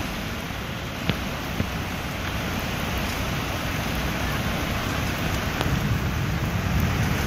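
Heavy rain pouring steadily, a dense hiss with a low rumble underneath, and two short sharp clicks between one and two seconds in.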